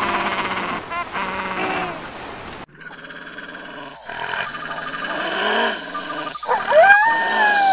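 A gray wolf starts howling about seven seconds in: one long call that rises and then wavers in pitch. Before it, other voice-like sounds cut off abruptly about two and a half seconds in.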